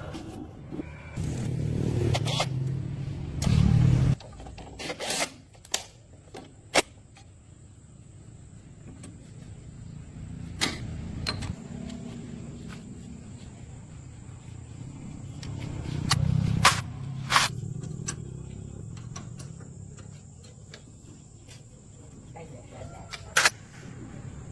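A car engine running, its low rumble swelling twice, with scattered sharp clicks and knocks of work on the car.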